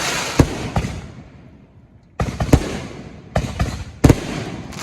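Consumer aerial fireworks going off: sharp bangs with a crackling hiss between them. After a short lull about a second and a half in, a fresh volley starts with several more bangs.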